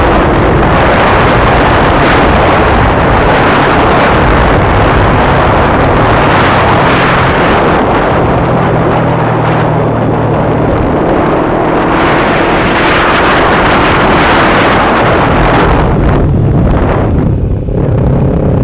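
Kawasaki Ninja 250R parallel-twin engine running under way, with heavy wind rush over the microphone. The wind rush eases near the end.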